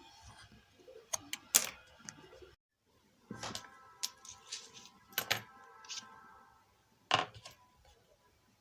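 Small metal tools and parts clinking and knocking on a workbench. There are about half a dozen sharp strikes, the loudest about a second and a half in, and some leave a brief metallic ring. The sound cuts out for a moment about two and a half seconds in.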